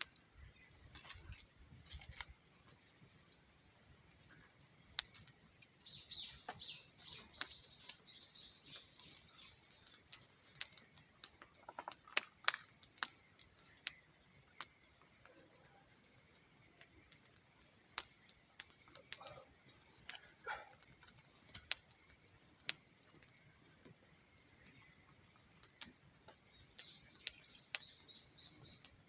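Wood campfire crackling with scattered sharp pops and clicks. A small bird sings a quick, high trilled phrase about six seconds in and again near the end.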